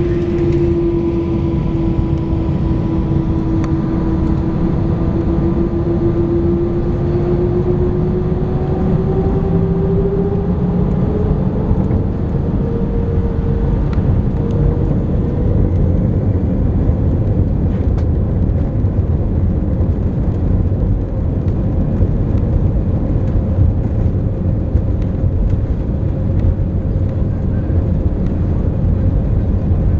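Airbus A318 jet engines heard from inside the cabin: a whine rises in pitch over about the first fifteen seconds and then holds steady over a loud constant rumble, the sound of the engines spooling up toward takeoff thrust.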